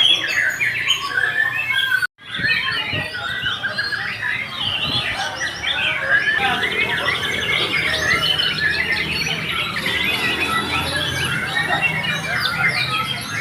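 Many songbirds chirping and singing at once, a dense overlapping chorus of calls and trills, with a brief cut to silence about two seconds in.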